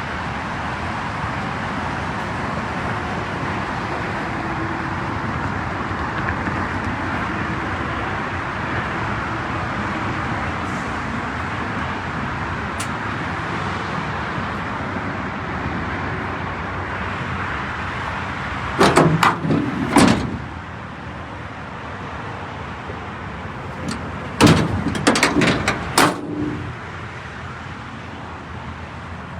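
Steady motor vehicle noise, then two short clusters of sharp clunks and knocks, the loudest sounds, about two-thirds of the way through and again a few seconds later.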